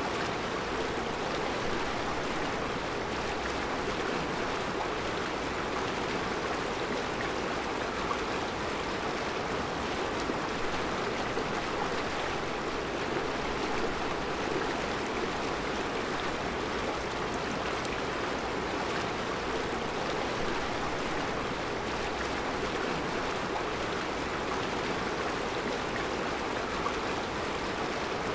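Mountain river flowing over round rocks in a rocky bed, a steady, even rushing of water.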